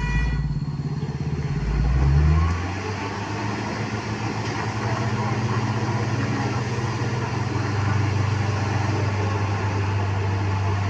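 Truck engine running steadily, its note dropping and settling about two seconds in.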